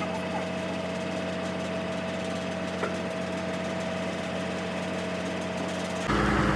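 An engine idling with a steady hum. About six seconds in it switches abruptly to a louder, rougher engine sound.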